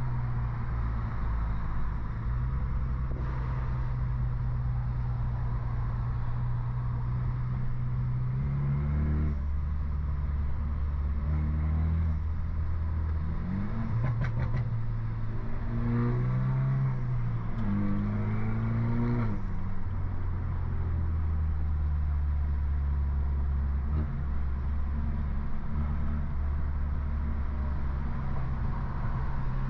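Exhaust note of a stage 2 tuned BMW F30 328i, its turbocharged four-cylinder on a downpipe. It drones steadily at cruise at first, then revs rise and fall through several gear changes in the middle, with a few sharp clicks near halfway, before settling back to a steady drone.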